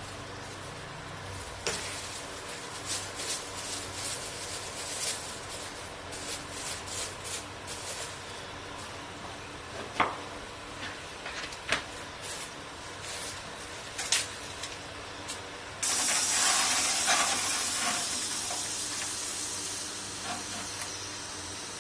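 Food sizzling in a hot pan, with scattered clicks and knocks of utensils. About sixteen seconds in, a much louder sizzle starts suddenly, as when food or liquid hits the hot pan, and slowly dies down.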